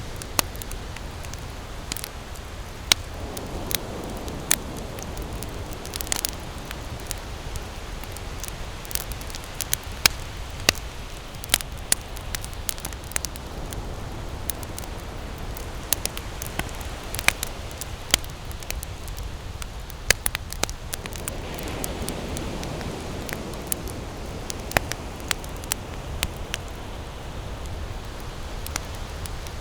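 Wood campfire burning, with sharp, irregular crackles and pops over a steady hiss, and twice a soft rushing swell.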